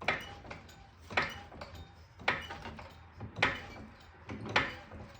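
Car jack being pumped to lift the front of the car, one sharp metallic clack with a few smaller clicks about once a second.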